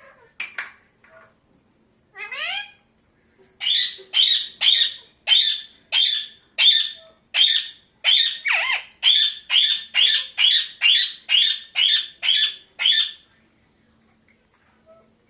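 Pet parakeet squawking: two short rising calls, then a fast, even run of about eighteen loud squawks, roughly two a second, that stops a couple of seconds before the end.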